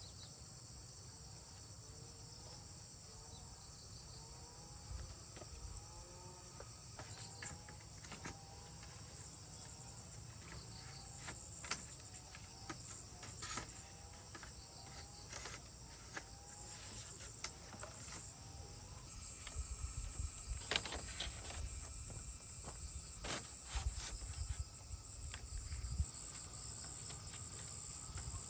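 Insects shrilling in a steady high-pitched drone that grows louder about two-thirds of the way through, with faint short chirps early on and scattered clicks and knocks.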